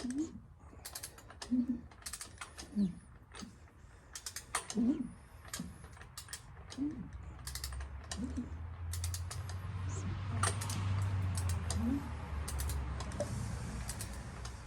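Engine crankshaft being turned over slowly by hand with a ratchet wrench for a compression test: irregular ratchet clicks and short creaks. A low hum builds up about halfway through and fades again near the end.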